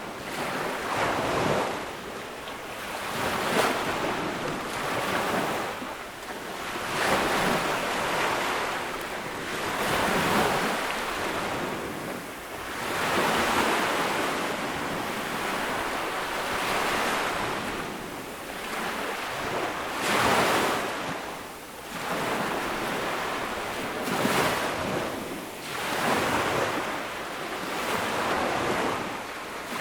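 Small ocean waves breaking and washing up a sandy beach, the surf swelling and easing every three to four seconds, with some wind on the microphone.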